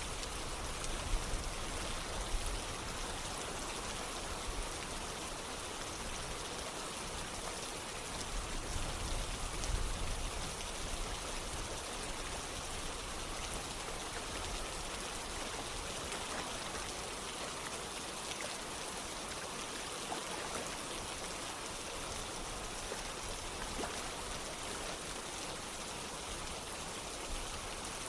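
Steady rain falling with running water, an even hiss, with a few brief low swells about a second in and around ten seconds in.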